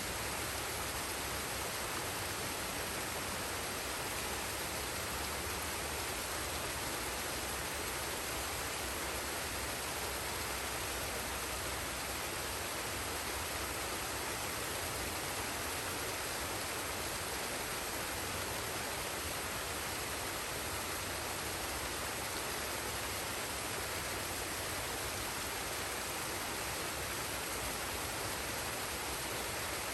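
Waterfall and forest stream: water rushing in a steady, unbroken hiss.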